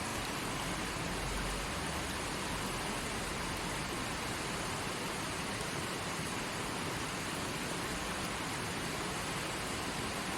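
Forest stream flowing in a steady, even rush of water.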